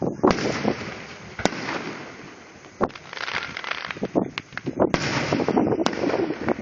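Fireworks going off in a rapid series of crackling volleys, broken by several sharp, loud bangs.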